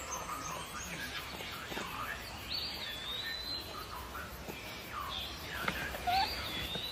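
Birds calling outdoors: scattered chirps, and twice a high whistled call that rises sharply, dips, then holds a steady note for about a second.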